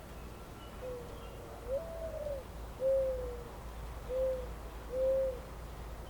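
A bird calling in a series of low hooting coos: a long first note that rises in pitch, followed by three shorter, even hoots.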